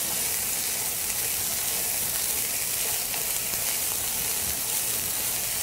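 Chopped onions and garlic sizzling steadily in a hot nonstick frying pan while a silicone spatula stirs them.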